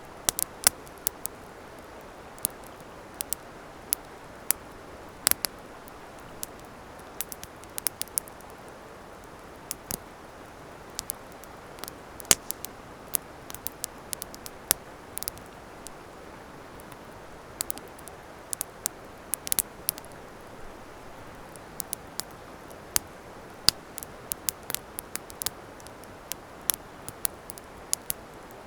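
Wood campfire crackling, with sharp, irregular pops and snaps over a steady soft hiss.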